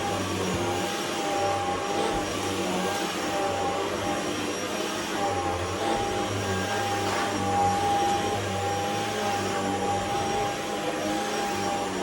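Shark HZ500UK anti-hair-wrap corded stick vacuum running steadily while vacuuming: a constant high motor whine over rushing airflow, with a low hum that swells and dips as the vacuum is moved.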